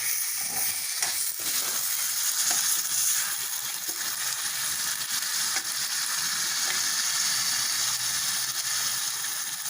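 Chopped onions, tomatoes, capsicum and chilies sizzling steadily in hot oil in a pan, with a few light clicks of stirring about a second in.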